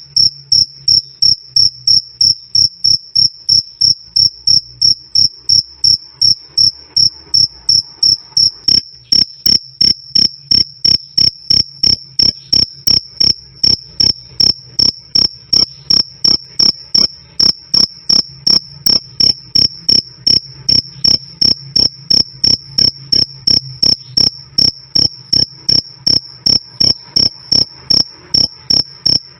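A male cricket chirping loudly and steadily, a high, clear chirp repeated evenly at about two to three a second, over a faint low hum.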